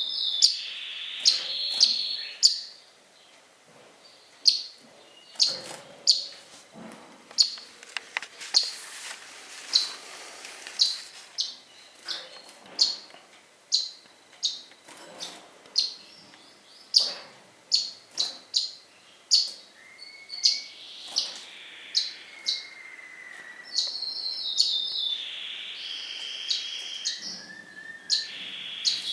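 Pet cage birds chirping: a string of short, sharp chirps, about one or two a second, with a high trilling song at the start and again near the end.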